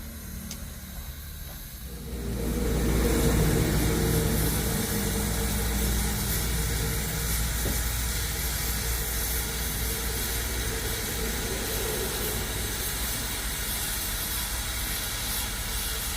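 A motor running steadily with a hiss over a low rumble, starting up about two seconds in.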